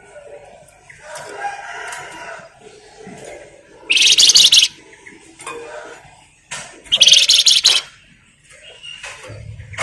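Flamboyan songbird singing in quick chattering bursts: softer calls early on, then two loud bursts of rapid, high notes, about 4 and 7 seconds in.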